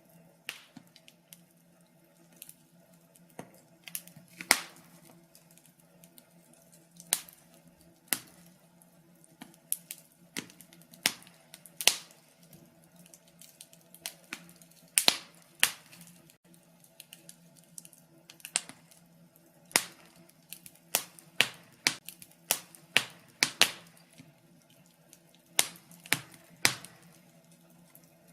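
Wood fire crackling: irregular sharp pops and snaps, a few every second, some much louder than the rest, over a faint steady low hum.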